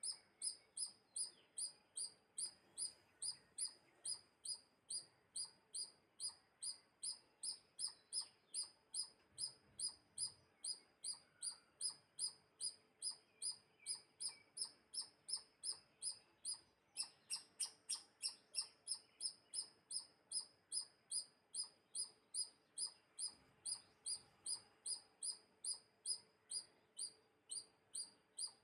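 A small bird calling: one short, high-pitched chirp repeated very evenly, about twice a second, on and on, a little louder around the middle.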